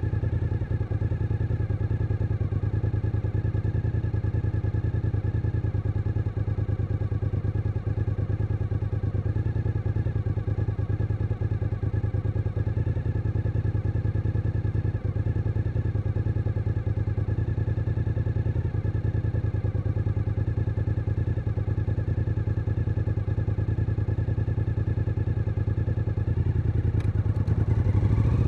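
Suzuki SV1000N's 90-degree V-twin engine running at a steady, even pace on the move. It picks up revs slightly in the last couple of seconds.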